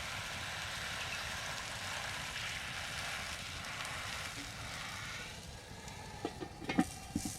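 Food sizzling as it fries in a pan, a steady hiss that eases off about five seconds in, followed by a few sharp clicks and knocks.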